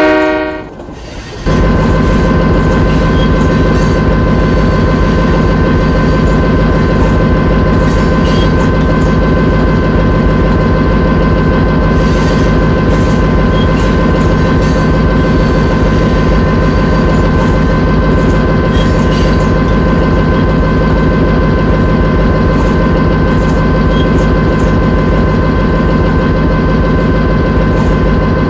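A train horn cuts off at the start, then about a second and a half in a locomotive engine starts sounding loudly and runs steadily, a deep rumble with a steady whine over it.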